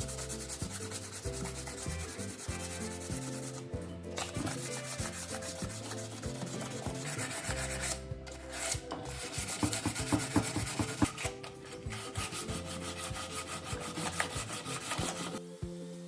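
Steady rubbing strokes cleaning the mating edge of the BMW F650GS's Rotax crankcase for a gasket seal, pausing briefly twice and stopping near the end. Background music with a stepping bass line runs underneath.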